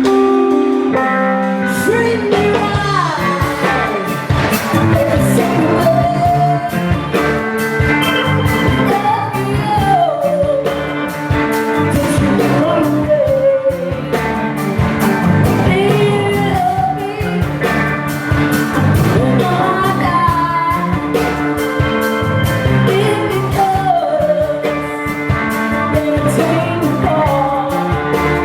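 Live blues-rock band playing, with a lead vocal singing over guitar, bass and drums. The singing comes in about two seconds in.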